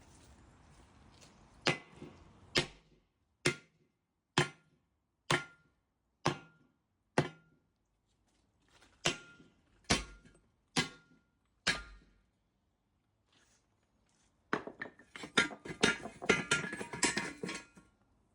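A hammer striking metal about ten times, roughly one blow a second, each blow ringing briefly. Near the end comes a few seconds of fast, dense metallic clattering.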